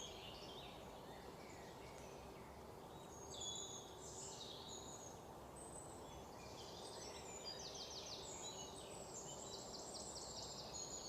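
Several small birds chirping and singing, with rapid trills about two-thirds of the way in and near the end, over a steady background hiss.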